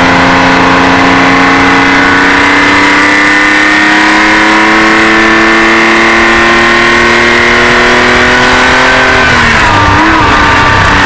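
1972 Porsche 911's air-cooled 2.4-litre flat-six pulling under load, heard from inside the cabin, its pitch climbing slowly for about nine seconds. Then the revs drop sharply, waver briefly and settle lower as the car keeps driving.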